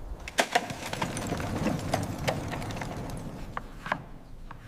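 A series of irregular, sharp clicks and knocks, about a dozen, over a low rumbling background.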